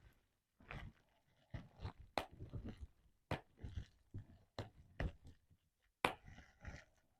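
Bubble wrap being popped: irregular sharp pops, about one every half second, with the plastic crinkling softly between them.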